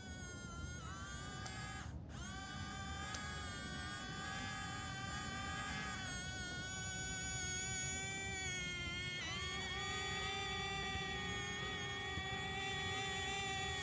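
Small electric motors of a toy excavator whining steadily. The pitch shifts as the load changes, with a brief stop about two seconds in and a dip and rise again at about six and nine seconds.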